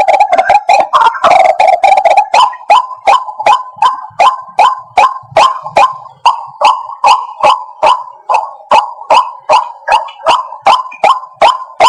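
White-breasted waterhen calling: a dense run of overlapping calls for about the first two seconds, then a steady series of short repeated notes, about three a second.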